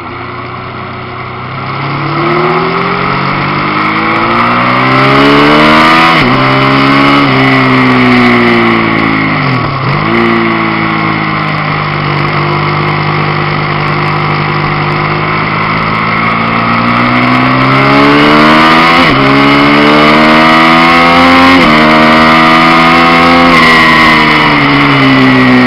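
Benelli motorcycle engine under hard acceleration: its pitch climbs and drops sharply at each upshift, about a second and a half apart. About ten seconds in the revs fall away deeply as the bike slows, then it pulls through the gears again and eases off near the end.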